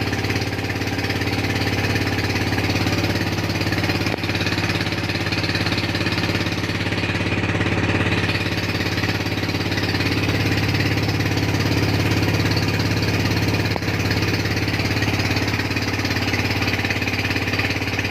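Boat engine running steadily, with a fast, even chugging.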